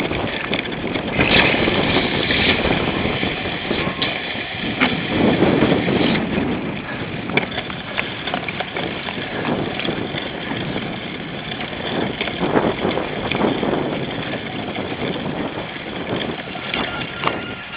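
Cyclocross bike ridden hard over rough ground: a steady rush of riding noise and wind on the microphone, broken by frequent knocks and rattles as the bike jolts over bumps.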